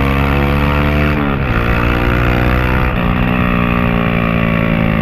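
Honda CG 160's single-cylinder four-stroke engine running under way through a homemade exhaust tip made from soda cans, very loud. The engine pitch drops sharply twice, about a second in and about three seconds in, as the rider shifts gears.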